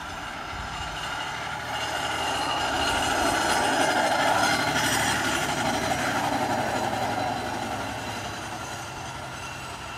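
Freight train cars rolling past on the rails, a rushing wheel-and-rail noise that grows louder to a peak about four seconds in and then fades.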